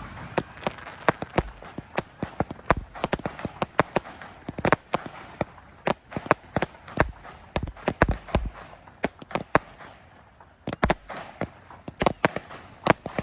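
Fireworks going off in rapid, irregular bangs with crackle between them. The bangs thin out briefly about nine seconds in, then resume thickly about two seconds later.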